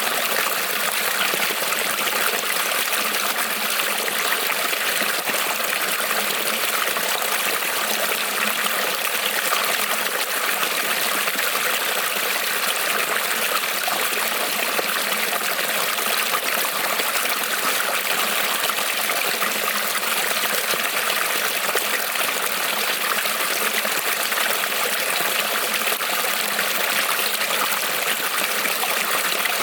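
Creek water rippling and trickling over stones in a steady, unbroken rush.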